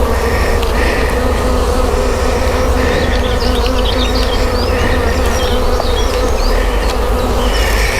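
Honeybees buzzing steadily in a loud, continuous hum around an open hive.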